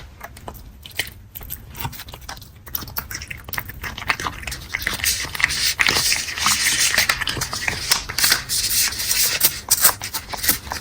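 A cat's mouth sounds close to the microphone: quick wet clicks, turning from about halfway into a dense run of rasping, scraping clicks, as of the cat licking or chewing.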